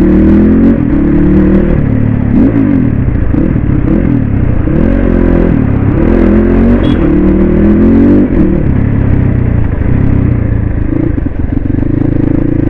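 Suzuki RM250 two-stroke motocross bike being ridden, its engine revving up and dropping back again and again.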